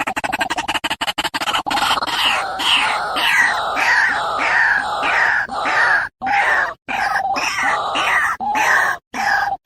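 White-breasted waterhen (ruak-ruak) calling, as played for luring the bird. A rapid run of pulses gives way about a second and a half in to repeated harsh, falling croaks about two a second, broken by a few short gaps.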